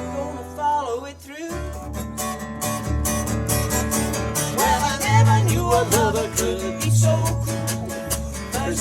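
Instrumental break of a song: guitar playing a lead line with bending notes over bass and a steady drum beat.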